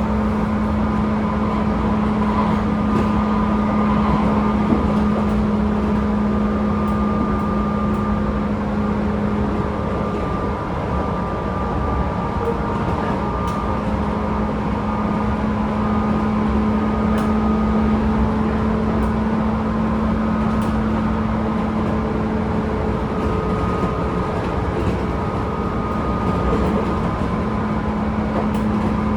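Running noise inside the motor car of a Tobu 10000 series field-chopper-controlled electric train travelling at a steady pace. It is a constant low hum with fainter whining tones above it that come and go, and occasional light ticks.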